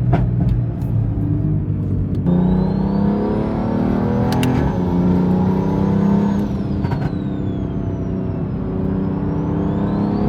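Car engine accelerating, its pitch climbing steadily, easing off, then climbing again near the end, with a thin high whine rising and falling along with it. A couple of sharp clicks cut through about four seconds in.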